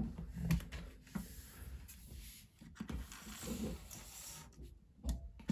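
Close handling noise: rustling with a few light knocks and soft thuds, as of a Lego set and its paper booklet being picked up and set down.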